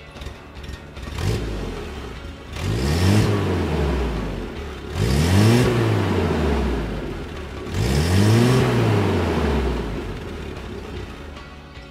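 1967 Amphicar's rear-mounted 1147 cc Triumph Herald four-cylinder engine idling, with three blips of the throttle, each rising in pitch and falling back to idle, about two and a half seconds apart.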